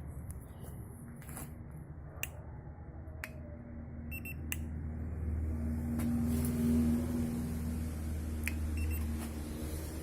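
Ford Laser's engine idling on a cold start, a steady low hum that grows louder about halfway through, with a few light clicks.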